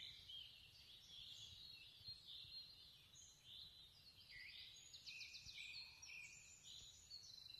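Faint birdsong from several small birds in woodland: many short chirps and trills overlapping, with a quick rattling trill about five seconds in.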